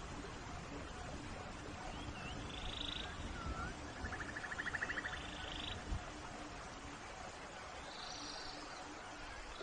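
Steady rain hiss with short calls from forest animals over it: a few curved chirps, a fast buzzy trill about four seconds in, and higher calls near the end.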